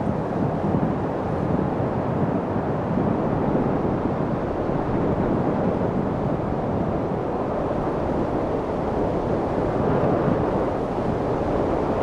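Steady wind noise: an even, unbroken rushing that sits mostly in the low and middle range, with no gusts or breaks.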